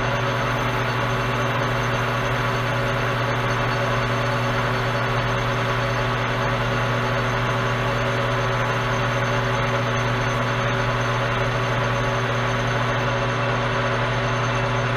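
Metal lathe running at a steady speed while a one-inch round bar spins against a gray Scotch-Brite pad for polishing: a steady motor hum with a hiss over it.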